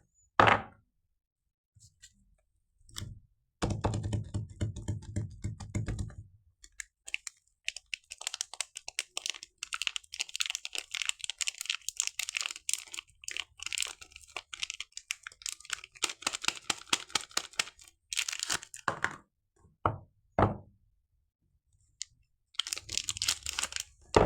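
Soap packaging being unwrapped and handled: a long stretch of dense, rapid crackling of the wrapper in the middle, with several short knocks of the soap or box being set down.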